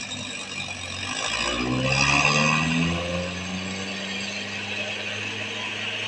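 Truck diesel engine under load on a steep climb, its pitch rising as it revs up about a second in, then holding steady, with a mechanical grinding whine over it.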